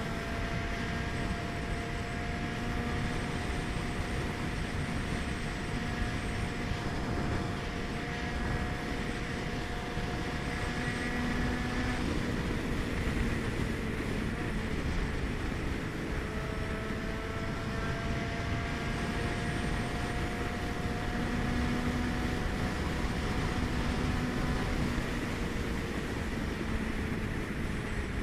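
Honda CBX 750 F's air-cooled inline-four engine running under way at steady speed over a rush of wind and road noise, its pitch creeping slowly upward; the tone breaks off about twelve seconds in and comes back lower a few seconds later, as with a gear change or a throttle change.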